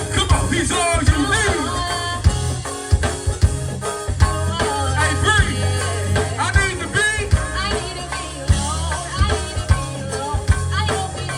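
Live gospel band playing: drum kit hitting a steady beat over a heavy sustained bass, with a wavering melody line, voice or horn, on top.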